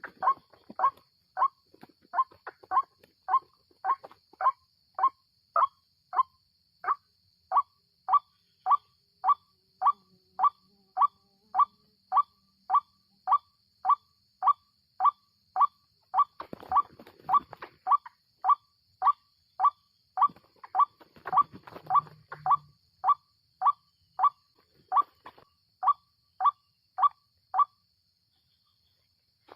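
White-breasted waterhen's call: a short note repeated at an even pace of about one and a half a second, which stops near the end. Two brief rustling noises come in the middle.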